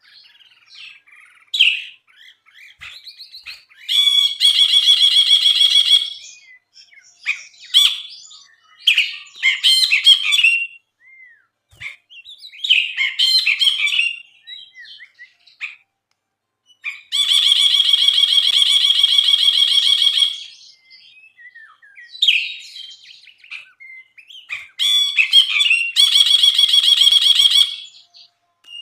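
A brinji, a bulbul, singing in full voice: varied quick chirps and whistled phrases, broken three times by long, buzzy, rapid trills of about two seconds each.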